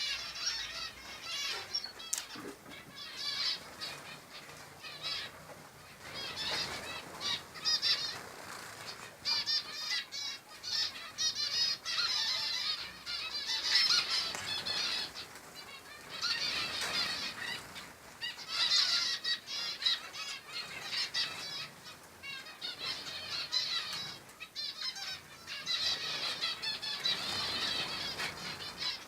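Small songbirds singing: rapid, warbling phrases of high chirps and trills, coming in bursts of a few seconds with short pauses between them.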